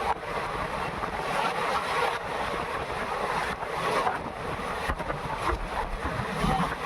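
Moving train heard from a window: a steady rush of wind and running noise, with a few short knocks along the way.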